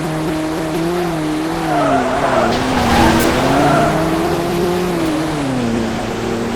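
Car engine running with a steady drone whose pitch wavers and then drops about two seconds in and again near the end, with tyres skidding for a second or two in the middle.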